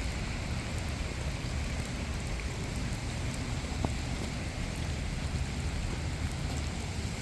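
Steady rain falling, an even hiss of drops with a low rumble beneath it and one faint tap about four seconds in.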